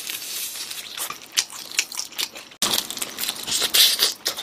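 Close-miked biting and chewing of crispy fried chicken: the crust crunching and crackling in quick, irregular clicks. The sound cuts out for an instant a little past halfway, then comes back with denser crunching.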